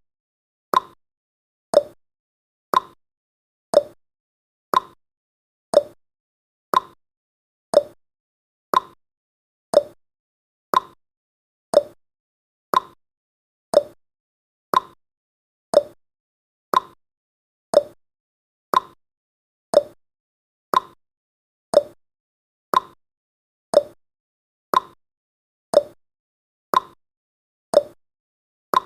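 Countdown timer's clock-tick sound effect: a short, sharp tick once every second, evenly paced, each dying away quickly.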